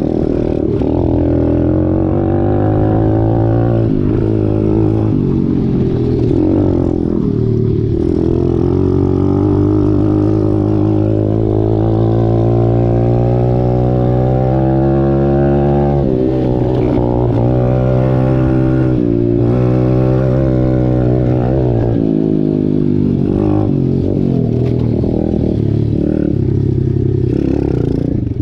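Dirt bike engine running hard as the bike is ridden, its pitch climbing steadily for several seconds, then dropping sharply about halfway through as it shifts or backs off, then rising and falling again.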